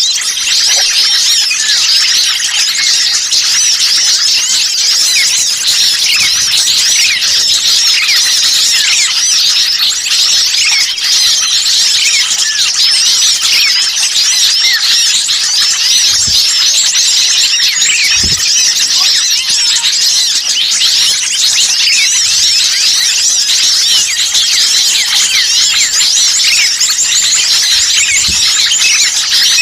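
Dense chorus of many small songbirds chirping and calling over one another without a break, a mixed-species bird-lure recording of agitated small birds.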